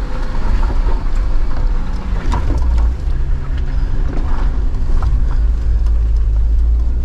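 Jeep Wrangler engine running low and steady while crawling a rocky trail, with scattered clicks and knocks over the rumble.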